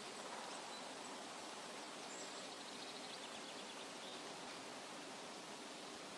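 Steady outdoor nature ambience: an even rushing hiss, like wind in foliage or running water, with a faint high bird trill of quick repeated notes about two seconds in.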